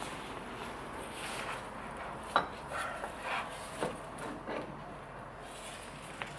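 Metal tools and parts being handled: a few sharp clinks and knocks with short scraping and rubbing sounds between them, and no machine running.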